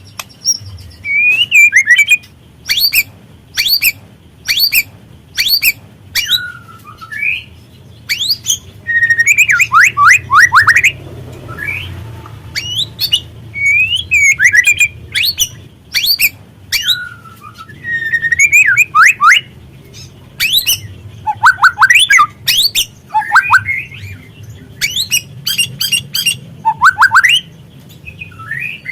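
White-rumped shama (murai batu) singing: a fast string of sharp, high whistled notes and falling, looping phrases, one after another with short gaps, over a low steady hum.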